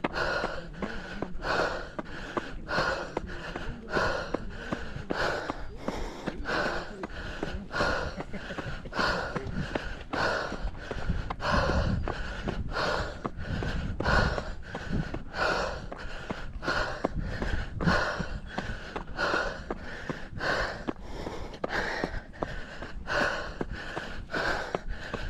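Heavy, rhythmic breathing of a runner working hard on a steep uphill trail, about three breaths every two seconds.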